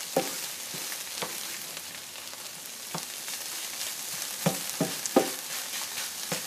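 Shredded spaghetti squash frying in butter in a skillet, sizzling steadily as it is flipped to brown the other side. A spatula scrapes and knocks against the pan several times, with a cluster of sharper knocks about three quarters of the way through.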